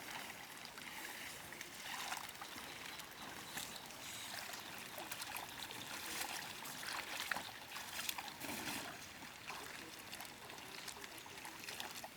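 Water sloshing and trickling, with many small splashes and clicks throughout.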